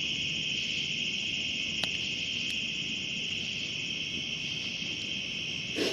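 Steady night chorus of crickets and other insects, a continuous high-pitched trilling that does not let up, with a short soft noise near the end.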